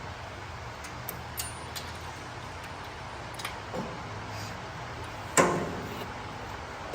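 Metal parts of a drum mower being handled during assembly: a few light clicks, then one louder metallic clank about five seconds in, over a steady low hum.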